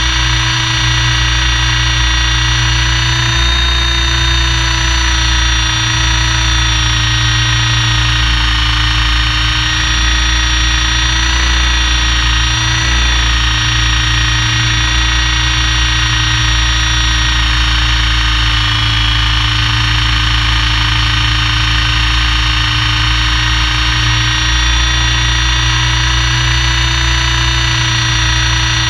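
Helicopter noise from inside the aircraft: a steady turbine and gearbox whine of several tones over a heavy low rotor rumble, unbroken throughout.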